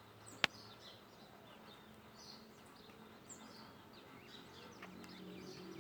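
Faint outdoor ambience after rain: many short bird chirps from several birds. A single sharp click about half a second in, and a low hum that grows near the end.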